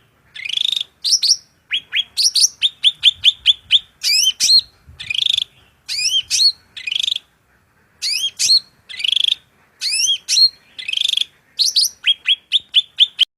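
A songbird singing a varied song: quick rising whistled notes, rapid runs of short clipped notes and harsher buzzy notes, delivered in phrases with brief pauses between them.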